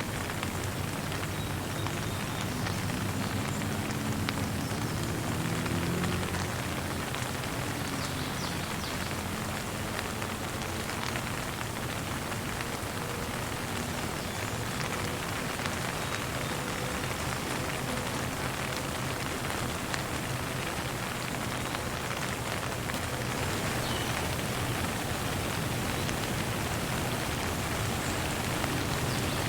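Steady, gentle rain falling and pattering on surfaces, an even hiss without a break.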